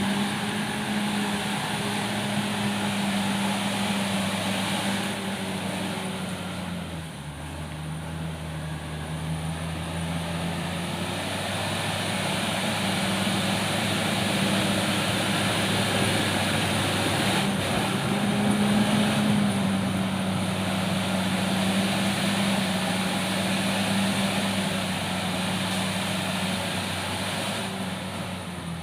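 Diesel engine of a Komatsu D68ESS crawler bulldozer running steadily while cutting a track. About seven seconds in, the engine note drops lower and quieter, then rises back to its higher pitch around eighteen seconds.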